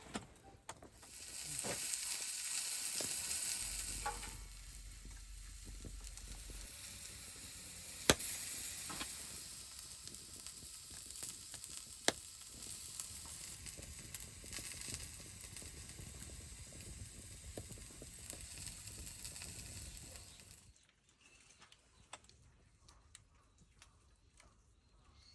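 Steady sizzling hiss over a fire, with scattered sharp pops. It cuts off suddenly about 21 seconds in, leaving only a few faint clicks.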